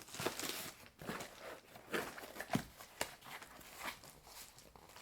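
Packaging being handled while an order is packed: irregular soft rustles of packing material with a few light knocks and clicks.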